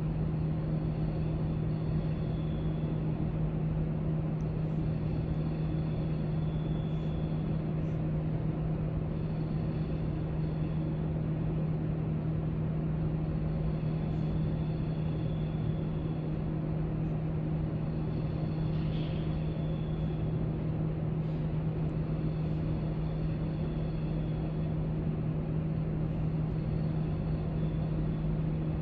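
Library room tone: a steady low hum and rumble with one constant drone, like ventilation, and a few faint scattered ticks.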